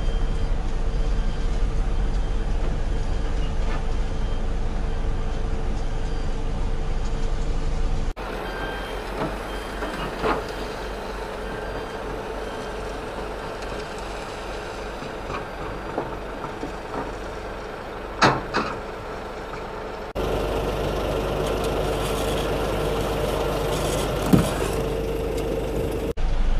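Concrete mixer truck running, a steady engine rumble with a held whining tone, and a few short sharp sounds about two-thirds of the way through and near the end.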